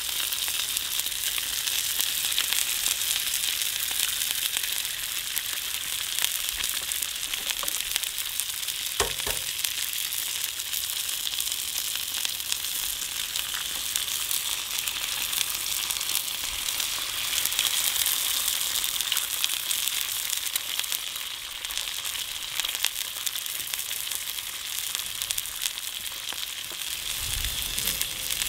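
Steak and eggs frying on a griddle plate over a gas burner, a steady crackling sizzle, with one short knock about nine seconds in.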